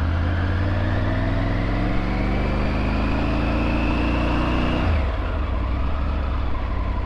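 Triumph Tiger 900 GT's three-cylinder engine pulling away under throttle, its pitch rising steadily for about five seconds, then dropping suddenly as the revs fall.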